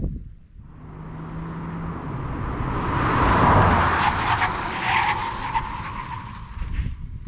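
Nissan Z sports car with its twin-turbo V6, driven hard with tyres squealing. The sound swells to its loudest about three and a half seconds in, then fades away near the end.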